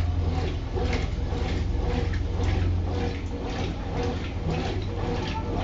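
Consul top-loading washing machine running its wash cycle: a steady motor hum with water swishing in the drum about twice a second as the load is agitated.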